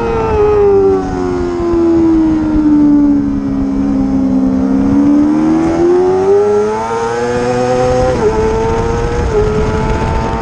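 Racing motorcycle engine at high revs: its pitch falls away smoothly for a few seconds, then climbs back up as it accelerates, with two quick upshifts near the end.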